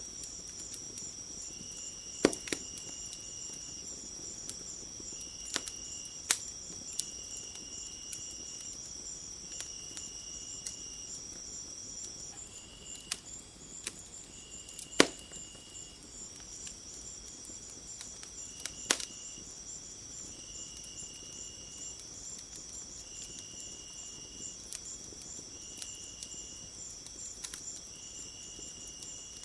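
Crickets and other insects calling steadily: one high continuous trill, and a lower chirp that comes in short spells every second or two. Sharp crackles and pops of a wood fire break in now and then, the loudest about two seconds in and again halfway through.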